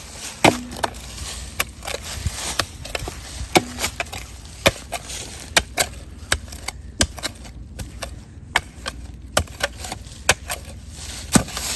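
Shovel digging into packed dirt: a string of sharp chops and scrapes at uneven intervals, about one or two a second.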